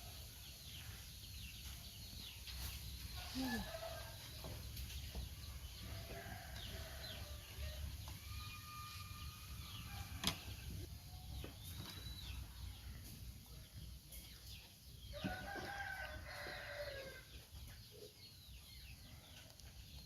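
Scattered animal calls: short chirps and squeaks with a few longer drawn-out calls, over a low rumble. There is one sharp click about halfway through.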